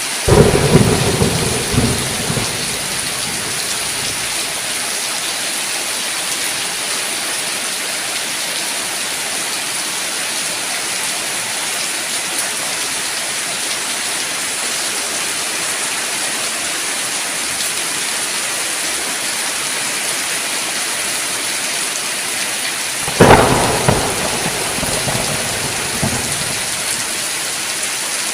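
Steady heavy rain falling, with two peals of thunder: one rumbling for about two seconds right at the start and another about three-quarters of the way through.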